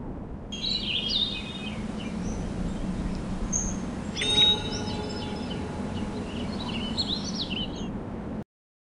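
Small birds chirping and singing over a steady low outdoor background noise, with a louder call a little past the middle. The sound cuts off suddenly near the end.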